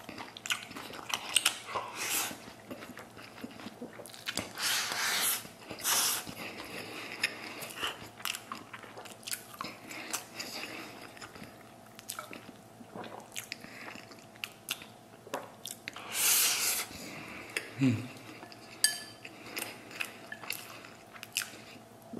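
Close-up eating sounds of a man chewing mouthfuls of steamed rice: wet mouth smacks and chewing, with light clicks of wooden chopsticks against a ceramic bowl and a few short breaths.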